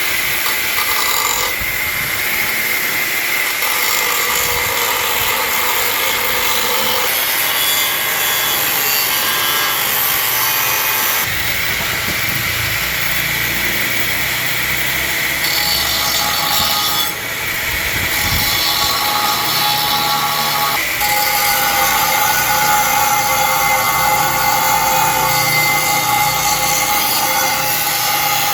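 A power tool running under load, a steady noisy whine with a high tone, changing abruptly in character every few seconds.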